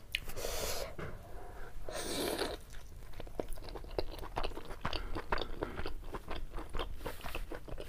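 Close-miked chewing of a big pork momo: a steady run of small wet mouth clicks and smacks, with a couple of short hissy sounds in the first few seconds.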